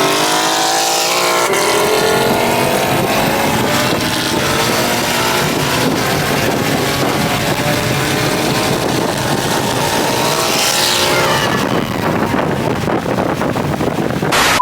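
A car engine revs up under hard acceleration, then keeps running at high revs with heavy wind and road noise. A falling sweep comes about ten to eleven seconds in.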